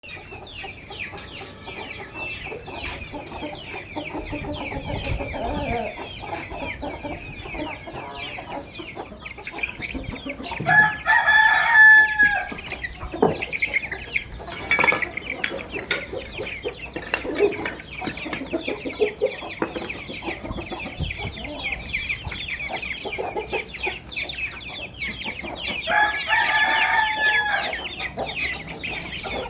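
Chickens clucking and chattering continuously, with a rooster crowing twice, about eleven seconds in and again near the end; the first crow is the loudest sound.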